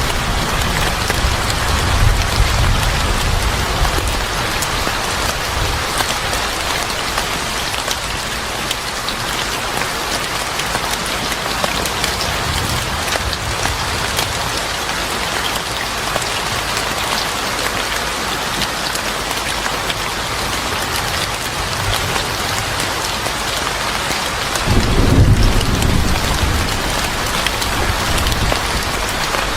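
Steady heavy rain pattering on a surface. There is a low thunder rumble at the start and a louder roll of thunder about 25 seconds in.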